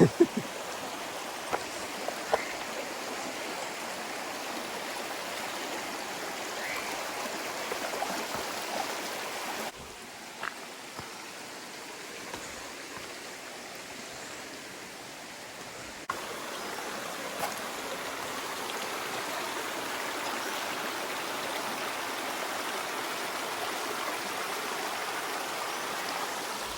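Small forest stream with clear water running steadily, a continuous rushing, a little softer for a few seconds in the middle. A few sharp clicks near the start.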